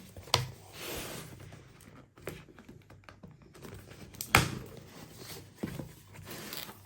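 Cardboard engine box being opened by hand: tape or seal being cut and torn, flaps rustling, and a few sharp knocks against the box, the loudest about four and a half seconds in.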